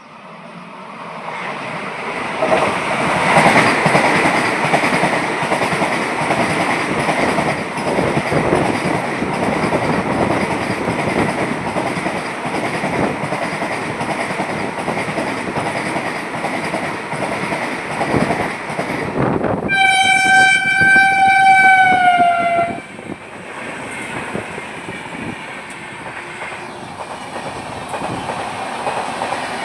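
Indian express passenger train passing: a steady rush of wheel and rail noise with clickety-clack, building up over the first few seconds. About two-thirds of the way through, the train's horn sounds one long blast of about three seconds that dips slightly in pitch as it ends. The train then runs on, a little quieter.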